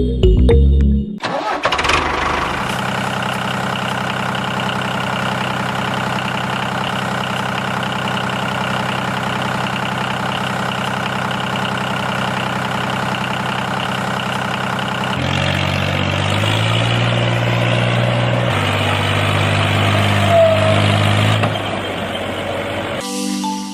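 Small engine of a homemade mini tractor starting up and then running steadily. From about 15 s in, its pitch steps up and down several times as it revs or takes load, and it stops shortly before the end.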